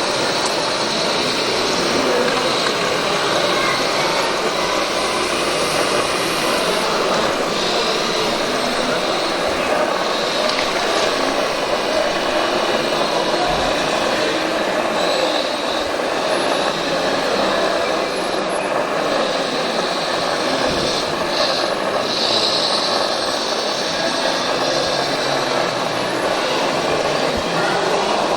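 Radio-controlled scale construction models working: a steady high whine of small electric motors and hydraulic pumps that swells and eases, with people talking in the background.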